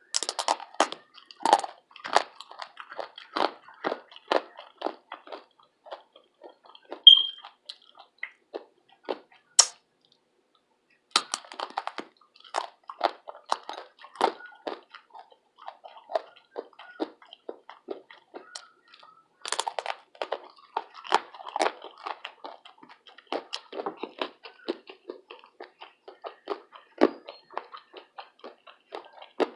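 Close-miked chewing and crunching of food in the mouth: quick irregular crackles with a couple of short pauses, and a brief high squeak about seven seconds in.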